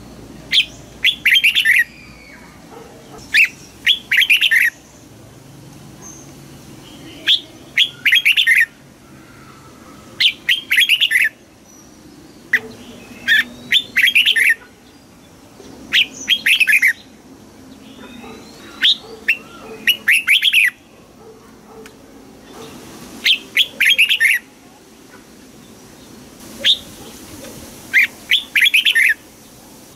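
Red-whiskered bulbul singing short, loud, warbled song phrases over and over, one every two to three seconds.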